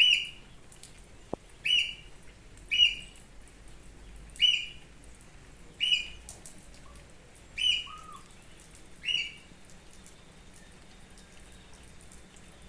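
A bird calling close by: a short, high, sharp call repeated seven times at intervals of about one to two seconds, then falling silent for the last few seconds.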